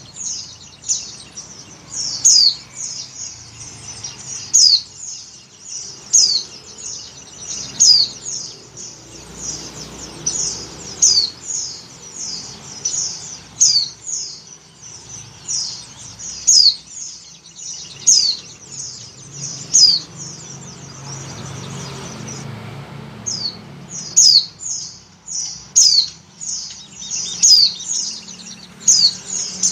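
White-eye (pleci) calling: a steady series of short, high, sharply falling chirps, about one or two a second, with a brief pause about two-thirds of the way through. The uploader presents it as a female in breeding condition calling for a male.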